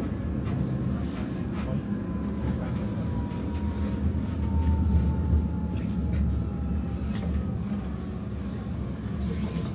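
Matterhorn Gotthard Bahn metre-gauge train running: a steady low rumble of wheels on the rails, with a faint whine slowly falling in pitch and a few light clicks.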